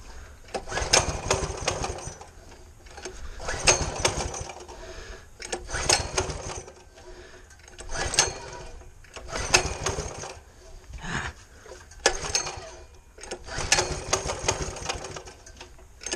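Small mini-bike engine being pull-started again and again: about seven short bursts of cranking and sputtering, one roughly every two seconds. The engine won't keep running.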